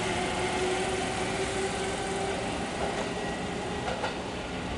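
Kintetsu 23000-series Ise-Shima Liner electric train running through the station and drawing away, its steady hum and wheel-on-rail noise slowly fading. A few wheel clicks come about three and four seconds in.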